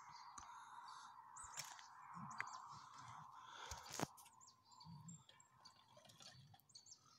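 Near-quiet woodland ambience with faint, scattered bird chirps, and a single sharp click about four seconds in.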